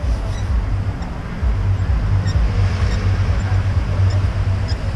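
Mini excavator's diesel engine running steadily, growing louder about a second and a half in.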